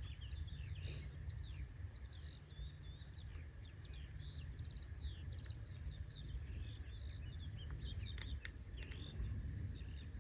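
Several birds singing and chirping, a continuous stream of short calls and quick pitch sweeps, over a low steady rumble. A few sharp clicks come near the end.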